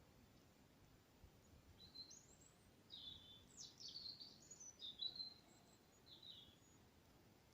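A songbird singing faintly: a varied run of high chirps and short whistles, some sliding up or down, starting about two seconds in and lasting about four seconds.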